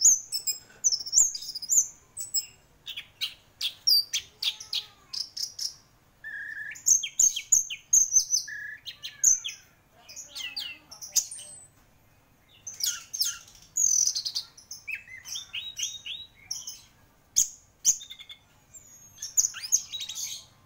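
Orange-headed thrush singing: a varied run of short, fast, high whistled phrases separated by brief pauses.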